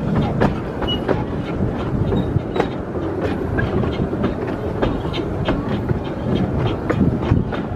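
Narrow-gauge train of passenger carriages rolling past, its wheels clicking and clacking over the rail joints at uneven intervals over a steady low rumble.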